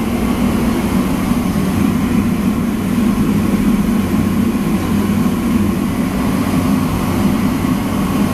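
Loud steady roar of large-kitchen equipment, mostly low in pitch and unchanging throughout.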